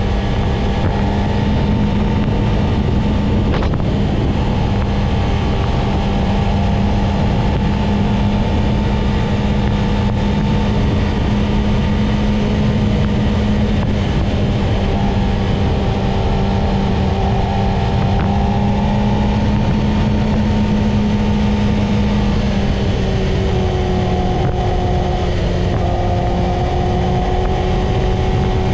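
Yamaha YZF-R6 inline-four engine running at a steady cruise, its note dipping slightly about three-quarters of the way through, with wind rushing over the microphone.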